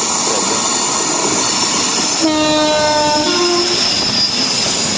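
A train running past with a steady loud rush of noise. About two seconds in, its locomotive horn sounds for about a second and a half, stepping up slightly in pitch near the end.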